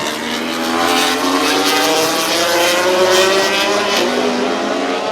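MotoGP racing motorcycle engines accelerating hard, their pitch rising steadily as they pull away from the corner.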